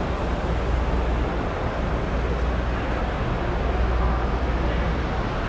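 Steady background noise of a large, busy exhibition hall: an even wash of sound over a constant low rumble, with no distinct events.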